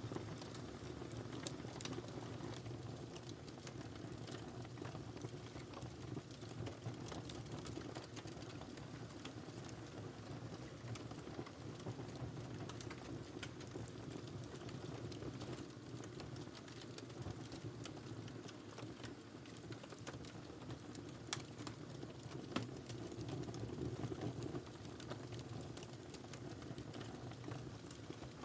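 Wood fire crackling, with small irregular snaps over a low, even rumble of flames and two sharper pops a little past the middle.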